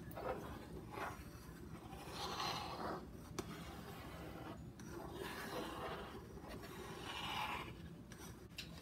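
Table knife swirling fruit filling through a thick whipped-cream base in a metal loaf pan: faint soft swishes and scrapes, stroke after stroke, with one small tick a little past the middle.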